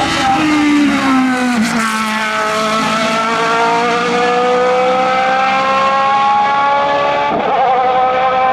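Race car engine accelerating on a hillclimb course. Its pitch drops at a gear change about two seconds in, climbs slowly through a long gear, and breaks briefly at another change near the end.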